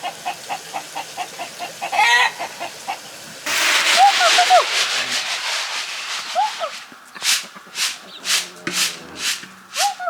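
Chickens clucking and calling. About three and a half seconds in a loud rushing noise starts under the calls, and in the last few seconds come evenly spaced scraping strokes, about two a second.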